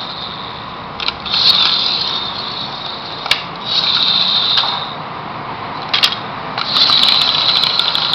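Friction-powered toy truck's flywheel and gears whirring in three spells as it is revved and run, each spell starting after a sharp click or knock.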